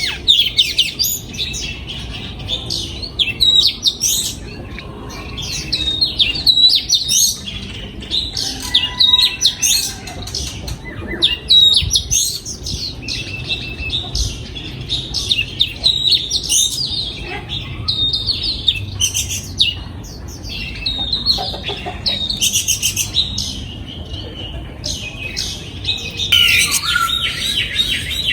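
Oriental magpie-robin singing: a long varied run of short whistled notes, quick rising and falling phrases and chirps, busiest and loudest near the end.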